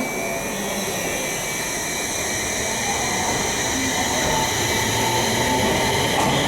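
Electric train's VVVF inverter whining during acceleration: several steady high tones over a running rumble, some tones rising and the sound growing a little louder in the second half. On top of the usual inverter whine ('kyuuu') is a shrill 'hyooo' ringing, the abnormal noise heard on a few 701-series and E721-series units from departure up to the modulation change.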